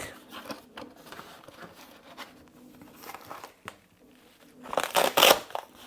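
Handling of the replacement battery's packaging: light rustling and small clicks, then a louder crinkling scrape lasting under a second about five seconds in.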